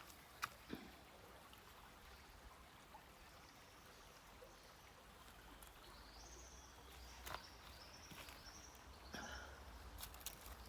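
Faint, steady running of a small creek, with a bird giving a few faint high calls in the middle and a few light clicks.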